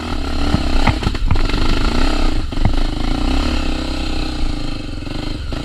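Honda XR 250 Tornado's single-cylinder four-stroke engine running at a steady pitch while being ridden, with a few sharp knocks about a second in and again near the middle.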